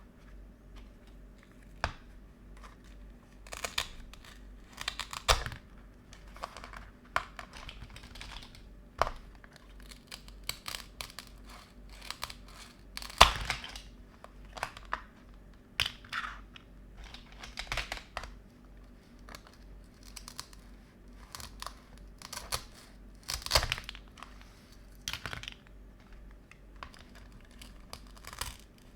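Plastic toy kitchen pieces and their packaging being handled: irregular light clicks, taps and crinkling rustles, a few of them sharper and louder.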